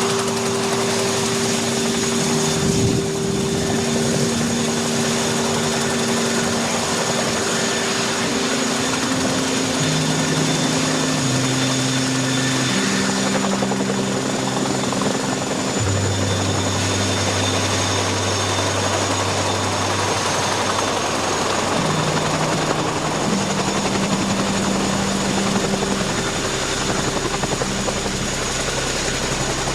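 RAF CH-47 Chinook helicopter running, a loud steady wash of rotor and engine noise with a thin high turbine whine. Low held notes changing pitch every second or few, like slow background music, lie under it.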